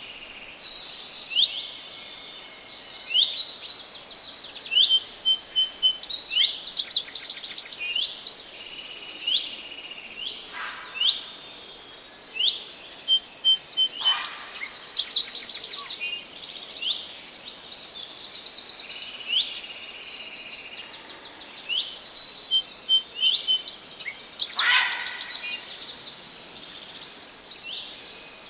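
Several songbirds singing at once: overlapping short swooping notes, rapid trills and chirps, repeated many times over a faint steady background hiss.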